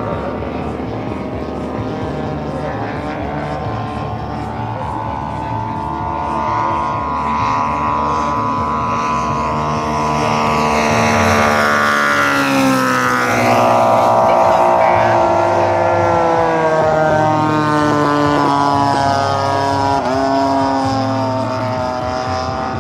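Saito 450 three-cylinder four-stroke radial engine of a giant-scale RC AT-6 Texan model, running in flight. The engine grows louder toward the middle, and its pitch drops sharply as the plane flies past. Near the end the pitch dips again on a second pass.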